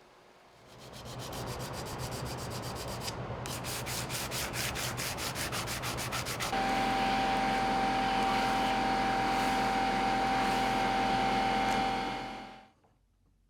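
Benchtop sander grinding a wooden plane body flush with its steel sole, a rasping sound with a fast regular pulse. About halfway through it turns into a louder steady run with a held whine, then stops about a second before the end.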